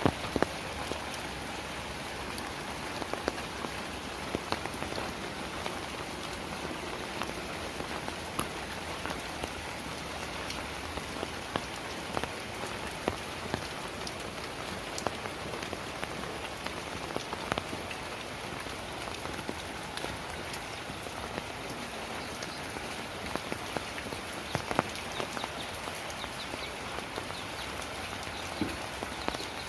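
Heavy rain falling steadily, with frequent sharp drop impacts scattered through the hiss.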